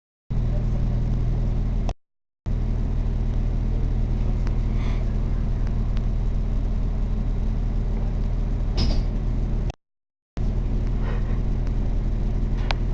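Train running noise inside the carriage: a steady low hum and rumble. It cuts out to dead silence for a moment about two seconds in and again near ten seconds, with a brief sharper sound just before the second gap.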